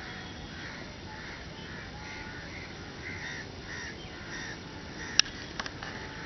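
Birds giving a steady run of harsh calls, one about every half second or so. A sharp click about five seconds in is the loudest sound, followed by two fainter clicks.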